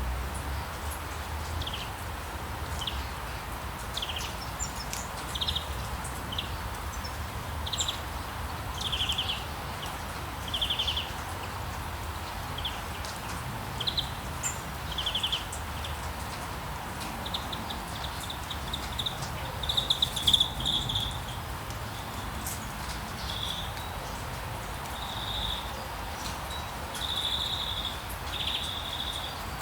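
Birds singing short high chirps and trills about once a second, turning to longer buzzy notes in the second half, over a steady hiss of rain and a low rumble.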